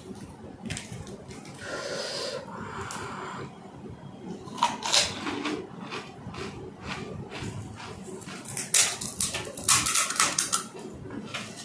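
Crisp pani puri (golgappa) shells crunching and crackling as they are bitten and chewed, close to the microphone, in a run of short crackly bursts. The loudest bursts come about five seconds in and again around nine to ten seconds in.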